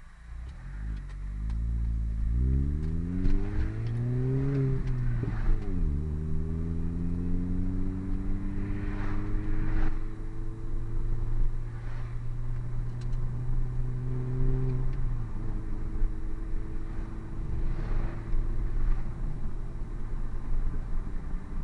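Hartge MINI's engine through a Hayward & Scott exhaust, accelerating with rising pitch, then dropping back about five seconds in as it changes gear. It pulls slowly up again in the next gear, steps down near fifteen seconds, and holds steady to the end.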